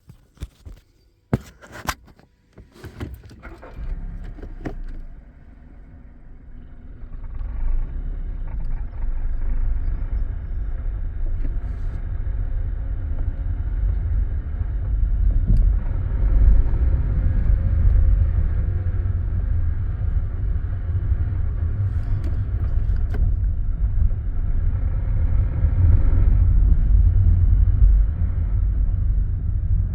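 2018 Honda HR-V pulling away and accelerating at low speed, giving off a low rumble that the owner reports as an unwanted noise. A few clicks and knocks come first, then the rumble builds about seven seconds in and swells twice as the car gathers speed.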